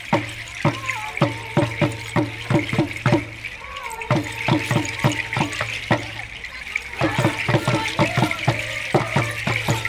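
Drums beaten in a steady rhythm of about three strokes a second, with group singing or chanting over them. The drumming pauses briefly a little past three seconds in, then resumes.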